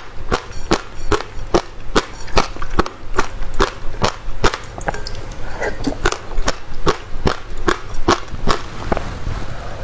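Close-miked mouth sounds of eating passion fruit: sharp, crisp clicks and crunches of the seeds being chewed, about two or three a second.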